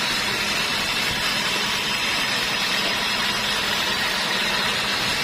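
Sawmill machinery running steadily: an even, unbroken noise with a faint low hum underneath.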